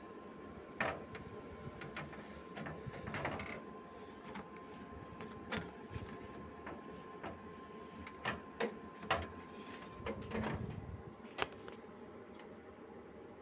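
Irregular sharp clicks and knocks over a steady background hum, with a faint steady high tone that stops about ten seconds in.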